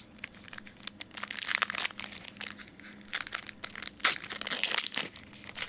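Plastic-foil trading-card pack wrapper crinkling as it is handled and opened, in irregular crackly bursts, heaviest in two flurries about a second in and about four seconds in.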